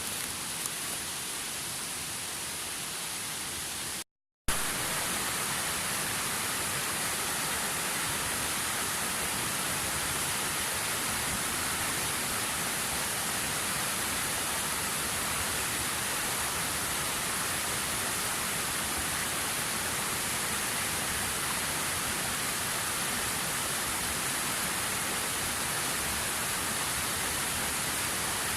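Waterfall rushing in a steady, even roar of falling water. About four seconds in the sound drops out completely for half a second, then comes back a little louder.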